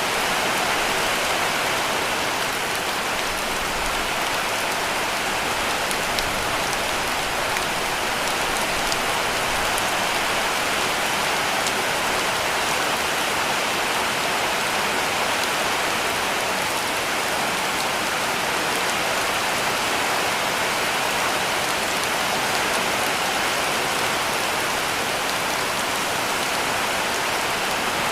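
Heavy rain falling steadily on a cabin roof: a dense, even hiss with a few faint drop ticks.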